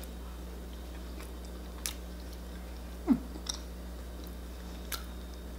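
A person chewing a mouthful of moist chocolate oat-flour cake, with a few faint mouth clicks, over a steady low room hum. About three seconds in, a short murmur of the voice falls in pitch.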